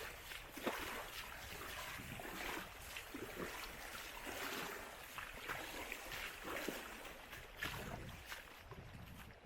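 River water rushing steadily, with footsteps on the trail about once a second.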